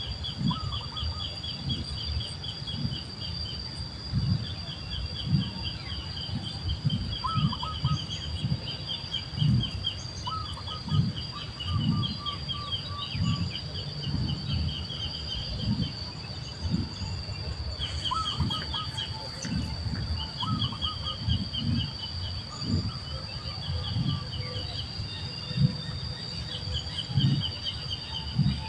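Birds chirping in quick repeated series, with a few lower short calls, over a steady high-pitched hum and irregular low thumps.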